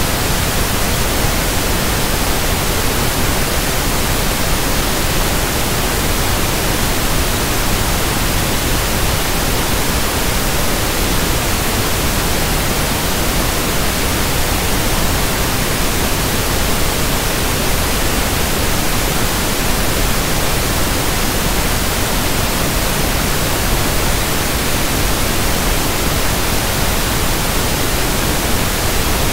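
Steady, loud pink noise (1/f noise): an even, unchanging hiss across the whole range, with no rhythm or breaks.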